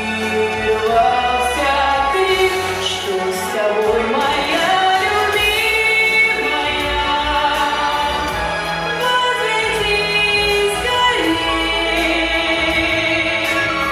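A song performed with singing over a musical accompaniment.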